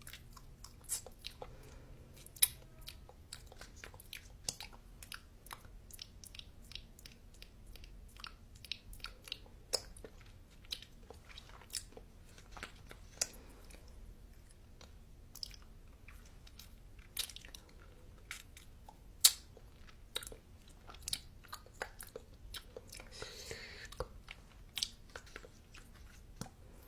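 Close-miked eating of crunchy food: irregular sharp crunches of bites and chewing, two much louder crunches about two seconds in and about nineteen seconds in.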